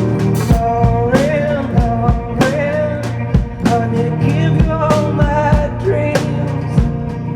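Live band music: a drum kit marking a steady beat under sustained bass and guitar, with a voice singing a melody over it.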